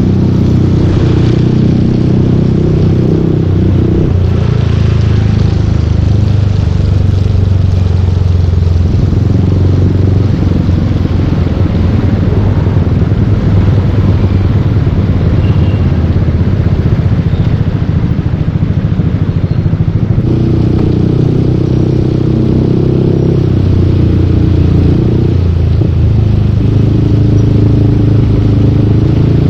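Yamaha Aerox 155 scooter's single-cylinder engine running through a full Yoshimura exhaust while riding, its low exhaust note shifting with engine speed. The note is clear at the start and again from about two-thirds of the way in, and blurred by a steady noisy rush in between.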